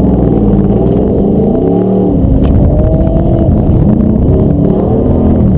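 LS V8 engine of a swapped Chevrolet S10 pickup running hard under acceleration. Its pitch climbs and drops several times as the throttle is worked.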